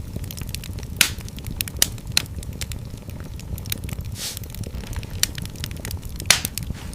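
Wood fire burning in a fireplace: a steady low rumble of flames with irregular crackles and a few louder pops, the loudest about a second in and near the end, and a brief hiss about four seconds in.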